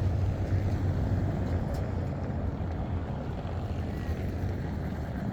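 Škoda 52T ForCity Alpha tram running by: a steady low rumble that eases slightly toward the end.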